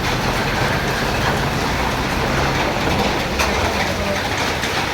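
Hailstorm with heavy rain: a steady dense hiss of falling rain and ice, with scattered sharper ticks of hailstones striking.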